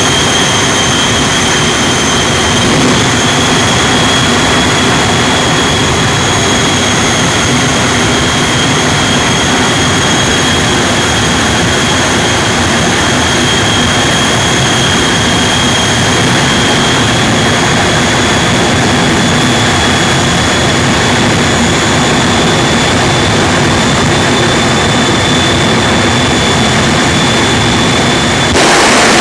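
Jet engines of a three-jet drag-racing semi truck running with a steady high whine over a dense rush of noise. About a second before the end the sound suddenly gets louder and rougher.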